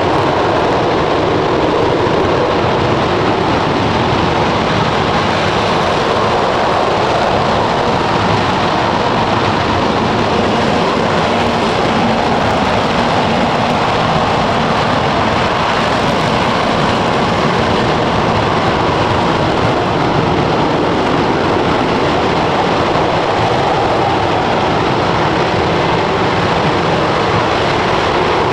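Aerojet Rocketdyne RS-25 liquid-hydrogen/liquid-oxygen rocket engine firing on a test stand: a loud, steady, even noise that holds without change.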